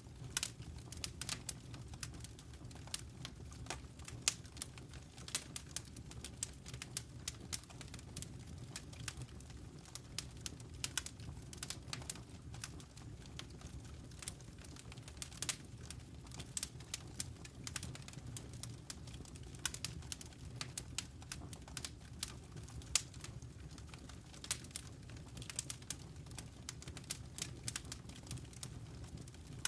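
Wood fire crackling in a fireplace: frequent irregular snaps and pops over a steady low rumble of burning.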